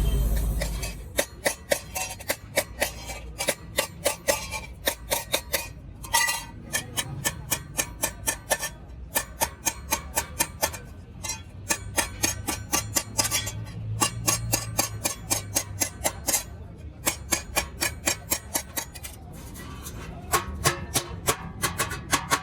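Hammer striking sheet metal in quick, steady runs of about three to four blows a second, with a few short pauses.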